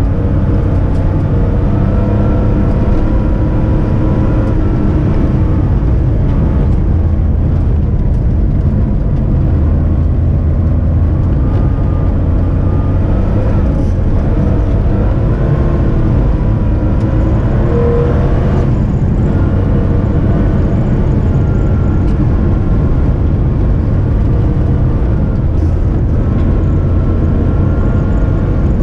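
Porsche 911 rally car's flat-six engine running under load as it is driven on an ice track, its note rising and falling steadily with the revs.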